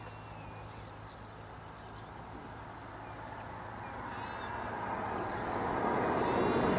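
A road vehicle approaching, getting steadily louder through the second half, over a low steady hum. A few faint bird calls sound in between.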